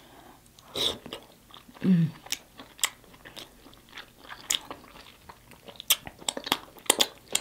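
A person chewing sauce-covered rotisserie chicken close to the microphone: wet smacking and clicking mouth sounds throughout, with a short hum about two seconds in.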